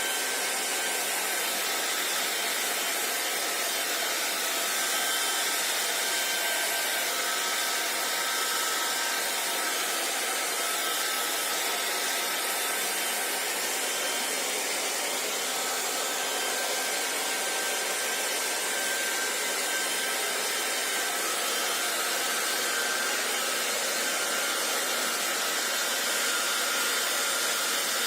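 Handheld hair dryer running steadily: an even airy hiss with a faint high whine from its motor.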